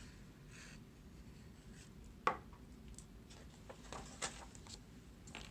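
A book being handled and its page turned: faint paper rustles and a few light clicks and taps, the sharpest about two seconds in and a small cluster a little later.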